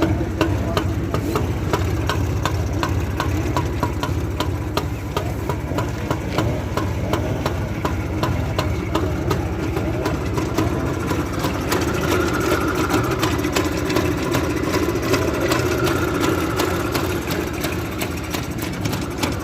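Motorcycle engine idling steadily, with a quick, even firing beat.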